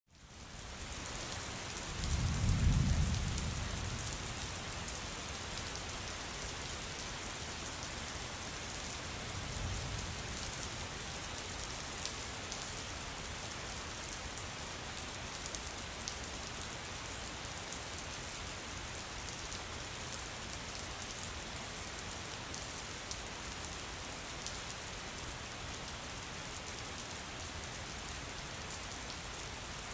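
Steady rain falling on a surface, fading in at the start, with a low rumble of distant thunder about two seconds in and a fainter rumble near ten seconds.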